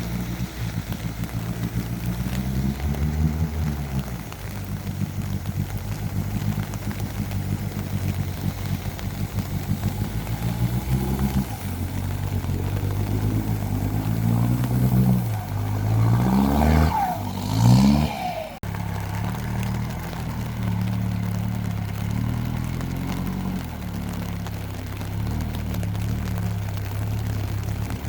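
Mahindra Roxor's 2.5-litre turbodiesel engine running steadily under load. A little past the middle the revs climb and drop several times in quick succession, then the engine settles back to steady running after a sudden break.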